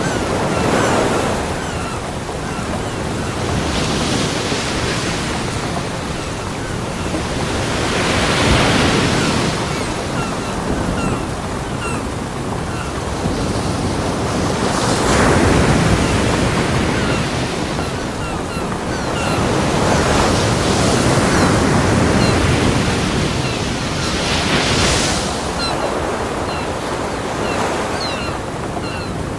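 Ocean waves breaking on a beach, each wave a rushing wash of surf that swells and recedes every few seconds over a continuous roar of water.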